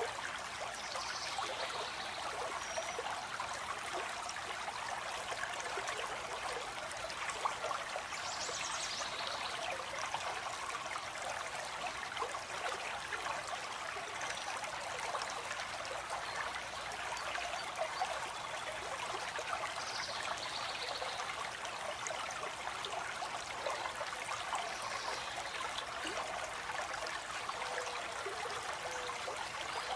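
Stream of water flowing and trickling steadily, with a few faint, short, high bird calls now and then.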